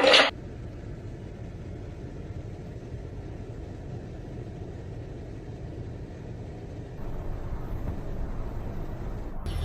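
Steady low rumbling noise with no clear pitch, getting a little louder about seven seconds in, after a short loud sound at the very start.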